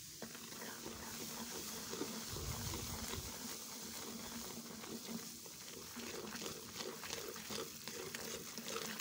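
Gram flour sizzling and crackling in hot ghee in a karahi, with a wooden spatula stirring and scraping through the frying batter.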